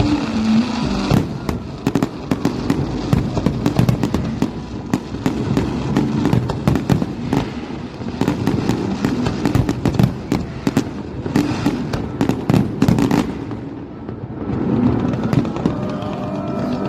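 Fireworks display: a rapid, continuous barrage of bangs and crackling shell bursts, easing off a few seconds before the end.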